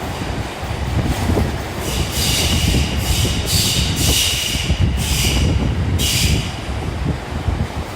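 Sotetsu Line electric train running through the station, its wheels rumbling steadily on the track. A high wheel squeal comes and goes in about five bursts through the middle.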